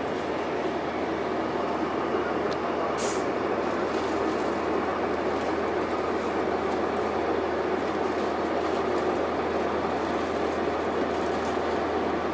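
Steady running noise inside a 2002 Blue Bird transit bus under way: its Cummins ISC diesel and the road noise together, with a few short clicks, the clearest about three seconds in.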